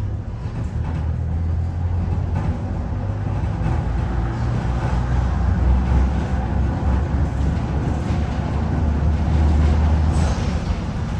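Rome–Centocelle narrow-gauge tram-train running, a steady low rumble.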